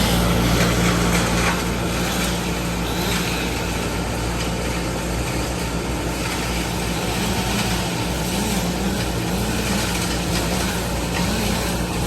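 A large engine running steadily under a broad background rush, its pitch wavering slightly in the second half.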